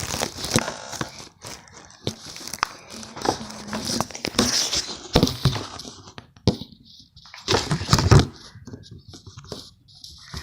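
Packaging or plastic crinkling and rustling, mixed with clicks and knocks of small objects being handled and set down, with a louder, heavier bump about eight seconds in.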